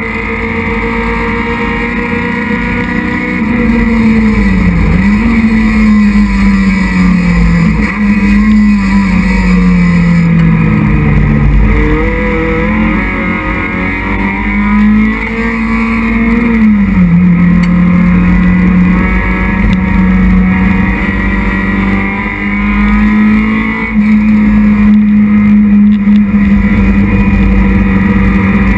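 Citroën Saxo race car's engine heard from inside its cockpit, driven hard at high revs, its pitch climbing and dropping several times through gearchanges and lifts, over a steady rush of road and wind noise.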